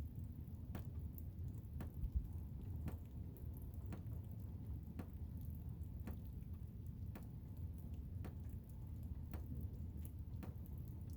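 Blizzard wind as a steady low rumble, with a faint sharp click repeating about once a second.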